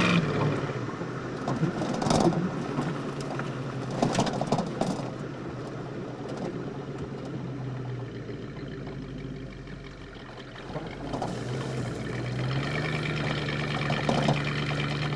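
1971 Plymouth Road Runner's 383 big-block V8 running under way, heard from inside the car, with a few short knocks a couple of seconds and four seconds in. Near the end the engine note grows louder and climbs a little as the car accelerates.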